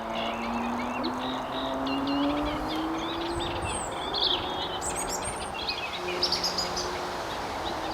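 Eurasian reed warbler singing a continuous, chattering run of varied short notes over a low background rumble. A faint low hum rises slowly in pitch through the first few seconds.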